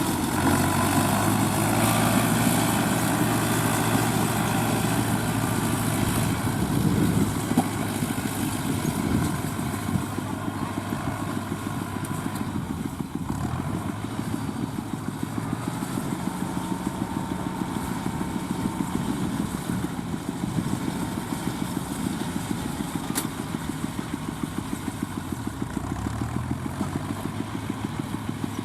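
Fiat 640 tractor's four-cylinder diesel engine running steadily while pulling a straw baler, growing fainter after about ten seconds as it moves away. Its pitch dips briefly twice, about halfway through and near the end.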